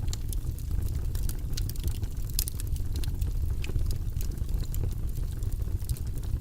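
Wood fire crackling in a fireplace: many small sharp pops and snaps at irregular intervals over a steady low rumble.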